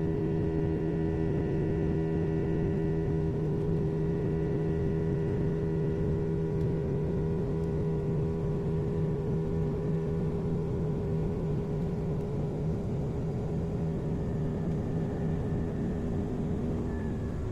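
Airliner cabin noise: the jet engines and airflow give a steady drone with a few held humming tones, heard from inside the cabin. It eases off slightly near the end.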